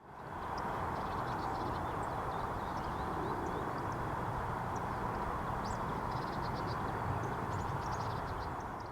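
Small birds giving faint, short, high chirps, with a quick trill of notes about two-thirds of the way through, over a loud, steady rushing background noise.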